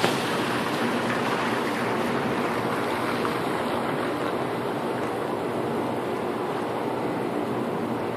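Steady rushing wind noise from a storm, even and unbroken, with one brief click right at the start. No thunder is heard.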